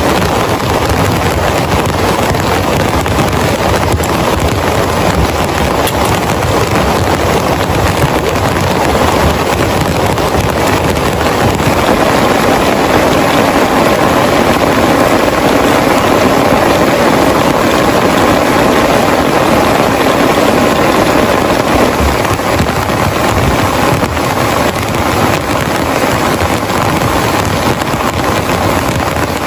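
Heavy rain falling steadily: a loud, even, unbroken hiss.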